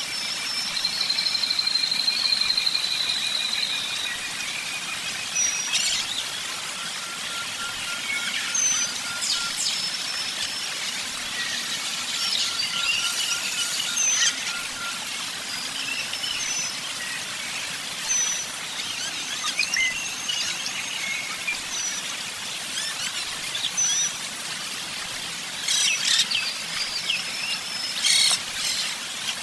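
Several songbirds singing and calling together over a steady hiss. There are long trilled phrases, short high whistled notes, and quick chips. A trill runs through the first few seconds, and there are bunched chips near the end.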